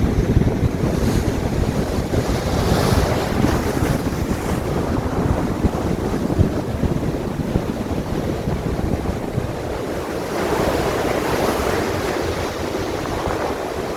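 Sea waves washing and breaking, with wind buffeting the microphone; a larger wave surges in about ten seconds in.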